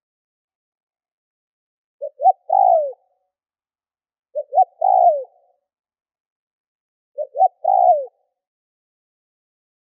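Spotted dove cooing three times, about two and a half seconds apart. Each call is two short coos followed by a longer coo that drops in pitch at the end.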